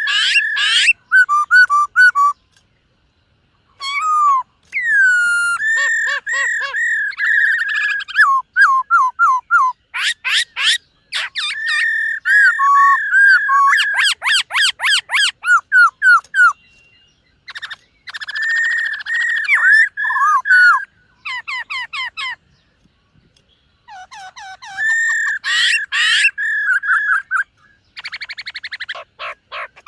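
Black-throated laughingthrush singing loud, varied whistled phrases: rich fluting notes, gliding slurs and fast runs of repeated notes, in bouts broken by short pauses of a second or two.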